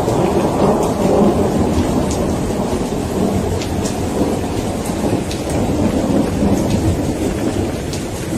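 Thunderstorm: steady rain with a continuous low rolling thunder rumble, easing slightly near the end, and scattered single raindrop ticks.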